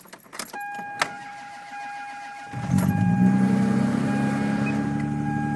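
1992 Lexus engine cold-started in sub-freezing cold on a weak battery: after a click about a second in it catches about two and a half seconds in and settles into a steady idle. A steady high tone sounds through most of it.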